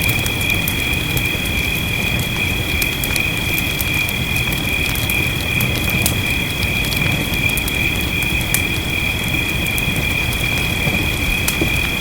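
Wood fire crackling with sharp, scattered pops over a steady low hiss of rain. A steady high-pitched two-note drone runs through it all.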